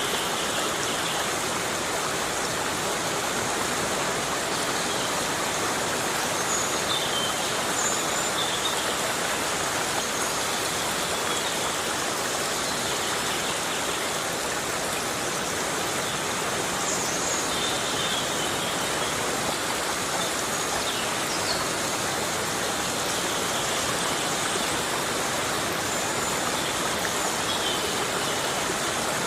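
Heavy rain falling steadily in a tropical forest, an even, unbroken hiss of downpour. A few faint, brief high chirps sound now and then through it.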